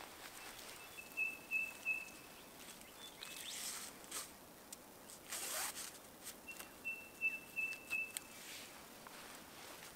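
A bird calling twice, about six seconds apart, each call a quick run of three or four short high notes at one pitch. Between the calls come soft swishes of a rope being pulled around a tree trunk.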